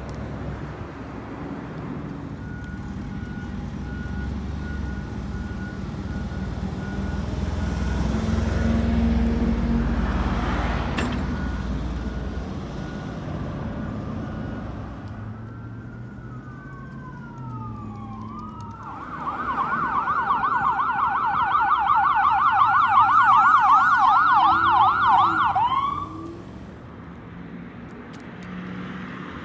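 Road traffic with a heavy vehicle passing, then an emergency vehicle's siren wailing in a fast yelp for about seven seconds before cutting off suddenly.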